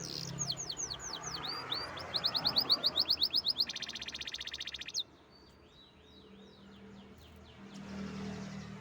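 Domestic canary singing: rows of quick downward-swept notes that speed up into a fast trill, then a buzzy rattle that cuts off suddenly about five seconds in, followed by softer, quieter notes.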